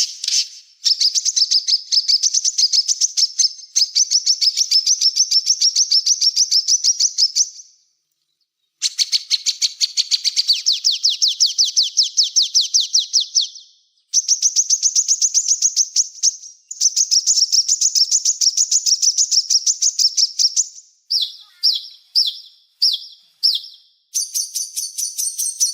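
Small songbird singing a fast, high-pitched trill in long runs of several seconds with brief pauses, breaking into short clipped phrases near the end.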